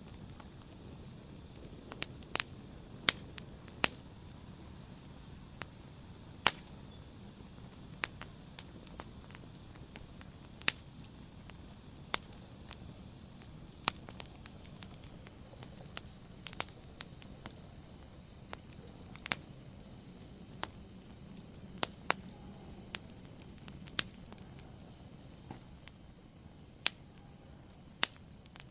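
Wood fire burning in a fireplace: scattered sharp crackles and pops, roughly one every second or two, over a soft steady hiss.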